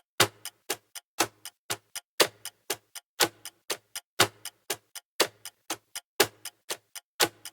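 Clock ticking sound of a countdown timer, about four ticks a second, with a louder tick carrying a low thud once every second.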